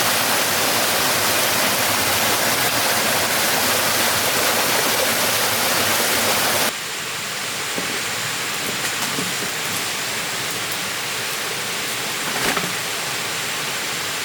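Steady rushing noise that drops suddenly to a quieter hiss about seven seconds in, with scattered faint ticks and a brief click near the end.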